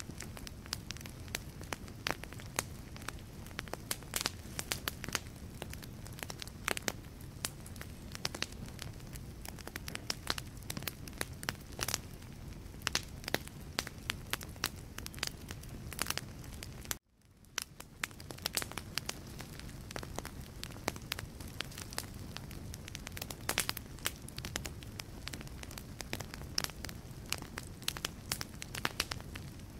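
Wood fire in a fireplace crackling, with many irregular sharp pops and snaps over a low steady rumble of the flames. The sound cuts out for a moment just past halfway, then fades back in.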